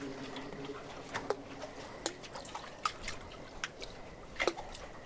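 Water dripping: single drops falling at uneven intervals, a couple a second.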